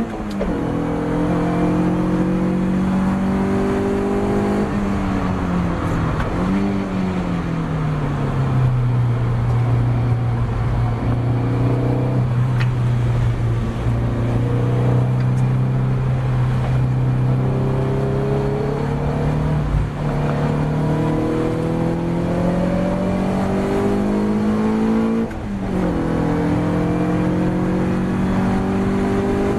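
Ginetta G40 race car engine running hard on track. The revs climb, drop suddenly at gear changes about six and twenty-five seconds in, and hold steady at lower revs for several seconds in the middle.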